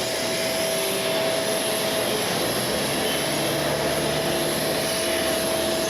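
Steady jet turbine whine with a strong hiss from aircraft on the ramp, holding one high tone throughout.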